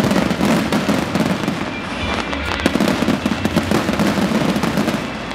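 Fireworks going off in quick succession, many sharp bangs and pops close together, over continuous music.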